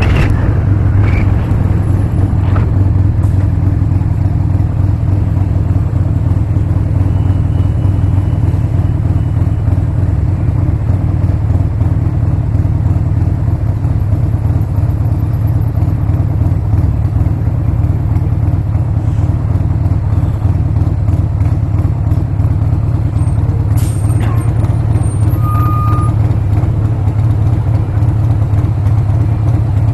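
Harley-Davidson Sportster's V-twin engine running at a steady speed, a low, even drone with no big changes in throttle.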